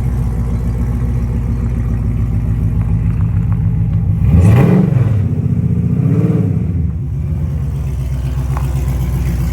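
Drag car's engine idling loudly, blipped up in revs twice around the middle and settling back each time.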